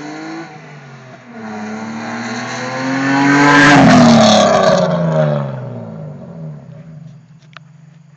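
Lexus IS accelerating hard, its engine and exhaust rising in pitch, dropping briefly at a gear change about half a second in, then climbing again. It is loudest about four seconds in as it passes, then the pitch falls and the sound fades away.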